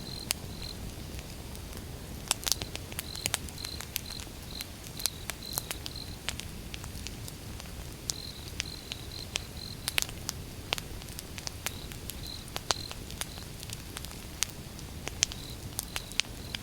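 Wood fire burning: irregular sharp crackles and pops, a few louder ones, over a low steady rumble of flames. A faint insect chirps in short bouts of repeated high notes.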